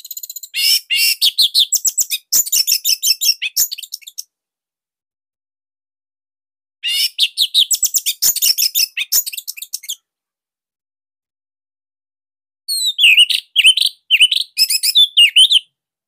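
Orange-headed thrush (anis merah) singing three fast phrases of rapid, high-pitched notes, with pauses of a few seconds between them.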